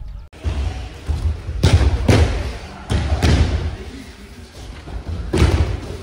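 Aikido practitioners thudding onto tatami mats as they take falls from throws, several heavy thumps with a hall echo. The thumps begin about a third of a second in, after a cut from quiet outdoor sound.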